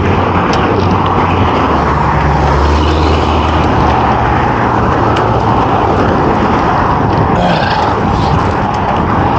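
Steady rush of wind and road noise on an action camera's microphone while riding a fixed-gear bicycle, with a low vehicle hum underneath for the first few seconds.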